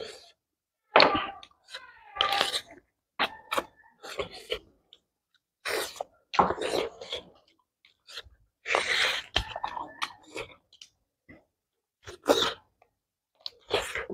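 People chewing and making mouth sounds while eating pork with rice and kholar beans, in short irregular bursts with brief quiet gaps between them.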